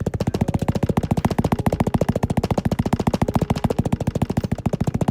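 A rapid, evenly spaced run of sharp hits, about fourteen a second, steady and loud throughout.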